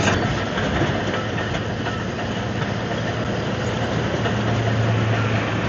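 Komatsu D155AX-7 crawler bulldozer working, its diesel engine running steadily under load over the noise of its tracks and machinery.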